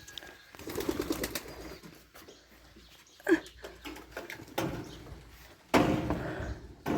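Domestic pigeons cooing, with a louder stretch of rustling near the end.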